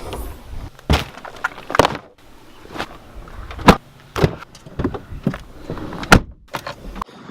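A Jeep being loaded with gear: an irregular string of sharp knocks and bangs, with car doors shutting.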